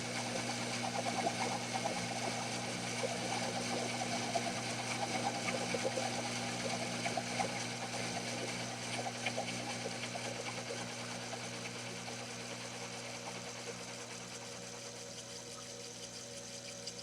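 Small benchtop machine tool running: a steady electric-motor hum, with an irregular light crackle on top that dies away over the second half.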